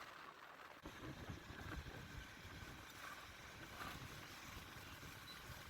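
Faint riding noise from a moving motorcycle: a low, uneven rumble of wind and engine on the rider's microphone that picks up about a second in.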